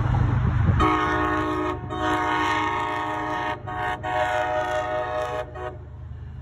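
Train horn sounding a multi-note chord for about five seconds, with a few very brief breaks, then cutting off. A low rumble runs under it and carries on once the horn stops.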